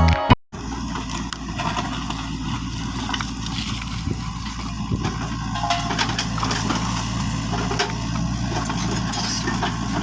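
A mini tractor's small motor running steadily at idle, a low even hum with scattered light clicks and rattles over it. A snatch of music cuts off about half a second in.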